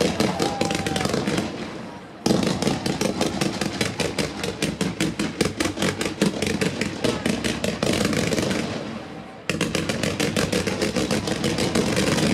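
Ground-level fireworks barrage: fans of comets fired in rapid volleys, a dense string of sharp bangs several a second. The firing dies away twice, just before two seconds in and again near nine seconds, and each time resumes abruptly at full strength.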